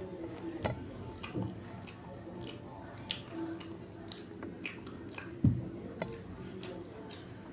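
Close-miked chewing of a mouthful of rice and dal, with wet mouth clicks and smacks scattered throughout. One louder low thump about five and a half seconds in.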